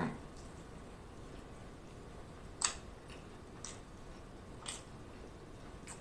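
A person chewing a mouthful of burger with the lips closed: faint wet mouth clicks, four of them about a second apart, the sharpest one near the middle.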